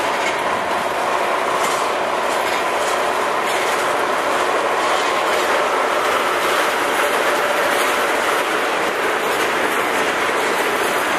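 Freight train of tank cars rolling steadily past: a continuous rumble and hiss of steel wheels on rail, with clickety-clack over the rail joints.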